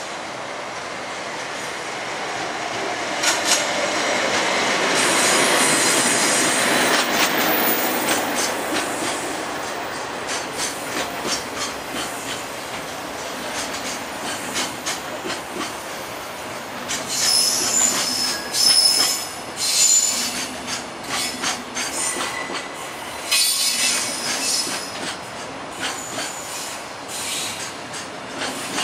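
A JR Freight ED76 electric locomotive passes, followed by a long train of container wagons rolling by: the sound swells as the locomotive goes past, then the wheels clack steadily over the rail joints. About halfway through and again a little later come short, high squeals from the wheels.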